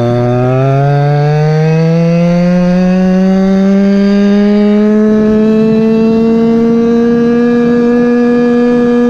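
Goped scooter's Chongyang CY26 26cc two-stroke engine pulling away after a brief let-off: its note climbs steadily for about five seconds, then holds at a high, steady pitch at cruising speed. A rushing noise joins as speed builds.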